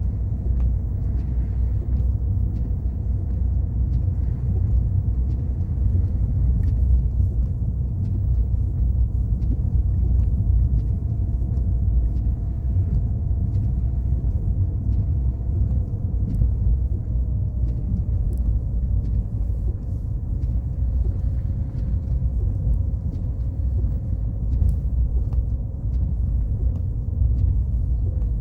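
Car driving: a steady low rumble of engine and road noise, with a faint steady hum that drops slightly in pitch a little past the middle.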